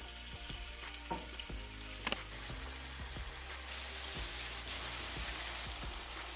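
Marinated chicken pieces sizzling as they hit hot olive oil in a pan, the sizzle growing louder and denser partway through as the pieces spread out. A couple of light knocks about one and two seconds in.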